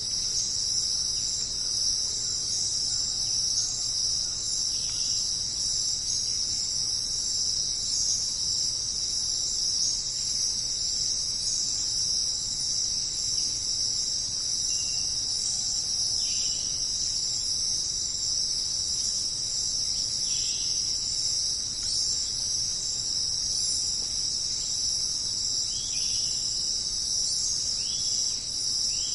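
Dense, steady chorus of crickets trilling without a break, with a few short, faint bird chirps scattered through it.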